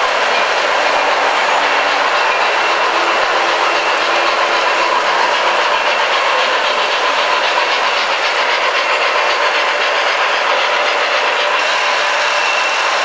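O gauge model trains and animated layout accessories running: a steady, dense mechanical whir and clatter of small electric motors, gears and wheels on track.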